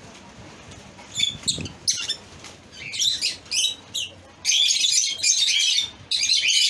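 Lovebirds chirping: a few short, high calls, then dense, rapid chattering from about four and a half seconds in.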